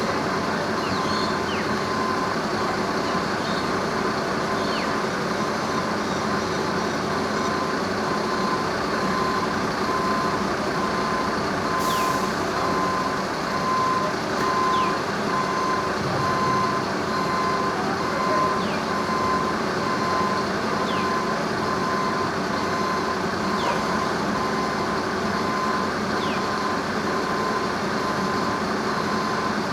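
A heavy vehicle's engine runs steadily while its reversing alarm sounds a train of short beeps, about one a second. The beeping grows louder about eight seconds in and fades again later.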